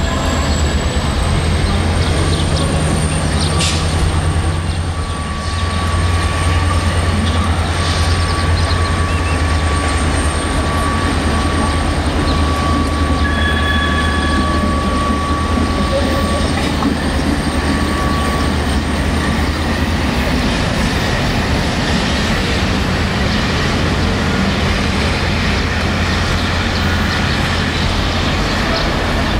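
Steady low drone of a diesel locomotive, with a passenger train approaching along the station tracks.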